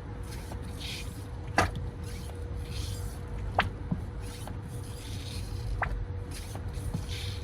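Thick old engine oil draining from a lawnmower engine, with a few sharp drips about two seconds apart over a low steady rumble. The oil is black and gummy from never being changed.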